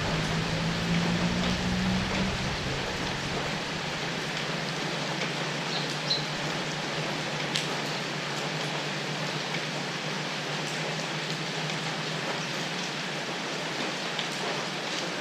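Steady rain falling, an even hiss with scattered ticks of drops. A low hum sounds under it at first and fades away over the first few seconds.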